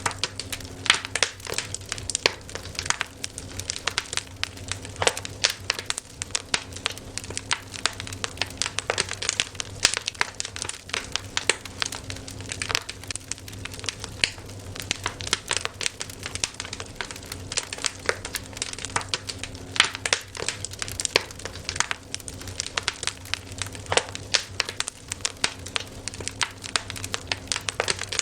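Wood campfire crackling, with many irregular sharp pops and snaps over a low steady hum.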